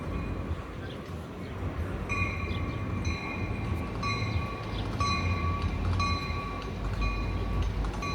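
Coaster commuter train pulling into the station: a low diesel rumble, with a bell ringing about once a second from about two seconds in.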